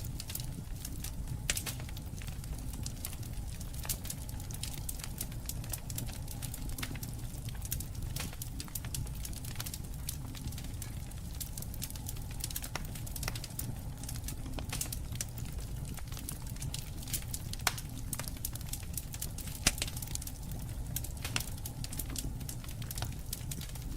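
Wood fire crackling, with irregular sharp snaps over a steady low rumble and two louder pops in the last third.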